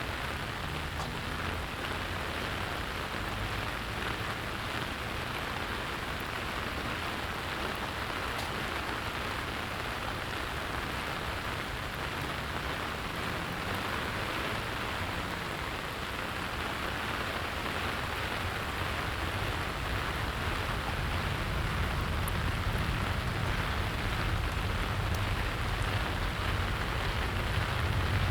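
Steady rain falling and pattering on surfaces. A low rumble grows louder over the last several seconds.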